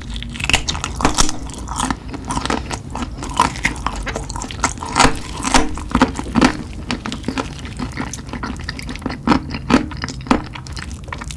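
Close-miked eating of spicy chicken: steady chewing with many sharp, wet mouth clicks and smacks.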